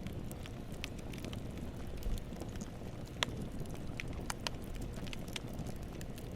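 Campfire burning: a steady low rumble of flames with irregular crackles and pops from the burning wood, one sharper pop about three seconds in.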